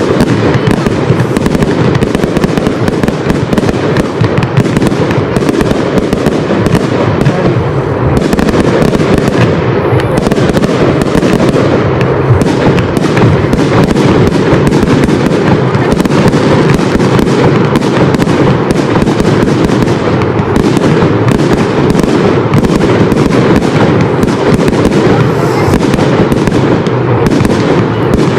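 Aerial fireworks bursting in a dense, continuous barrage: rapid bangs follow one another with no pause.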